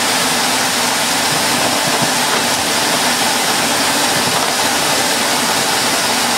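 Vintage Electrolux Z345 Automatic cylinder vacuum cleaner running steadily under suction: a continuous motor hum under a loud airflow hiss.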